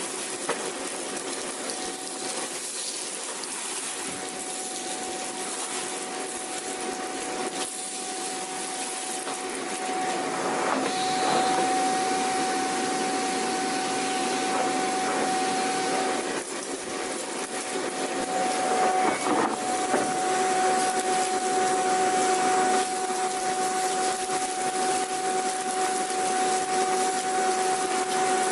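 Vacuum cleaner running steadily, a constant hiss of rushing air with a high motor whine. The sound grows louder about ten seconds in and again after about eighteen seconds, with a few faint knocks along the way.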